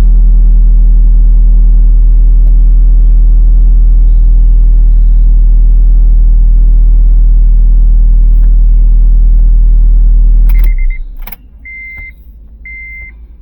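Car engine idling steadily, heard close up, then switched off about ten and a half seconds in. A click or two follows, and a chime begins beeping about once a second.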